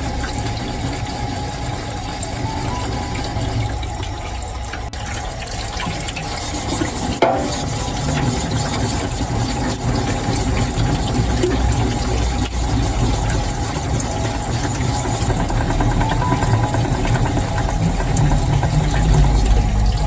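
Steady machine running with water, typical of a motorised water-fed sharpening wheel grinding a deba knife's blade, with a low rumble underneath. One sharp click comes about seven seconds in.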